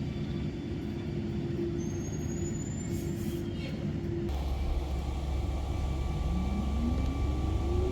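Tyne and Wear Metro electric train: a steady hum, then an abrupt change about four seconds in, and from about six seconds in the electric traction motors whine rising in pitch as the train accelerates away.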